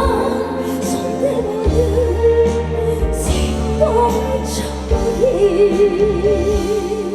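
Live amplified performance of a slow, gentle Korean trot ballad: a woman singing over a band backing with a steady bass line. Near the end a long note wavers with vibrato.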